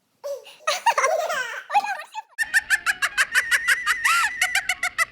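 People laughing and squealing, then a fast, even run of giggling pulses, about five a second, for the rest of the time.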